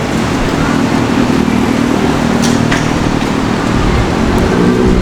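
City street ambience: road traffic running past steadily, with two short sharp clicks about two and a half seconds in.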